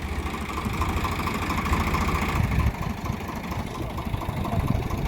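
Farm tractor's diesel engine running steadily at low revs, its upper sound thinning a little under three seconds in.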